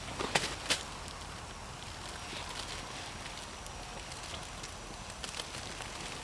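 Campfire crackling, with two louder snaps in the first second and sparse pops after.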